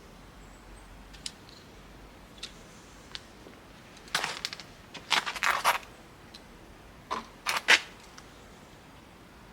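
Sharp clicks and rattles of small parts being handled during hand work on a table saw's switch wiring: a few faint ticks, then a burst of clattering clicks about four to six seconds in and another shorter one about seven to eight seconds in.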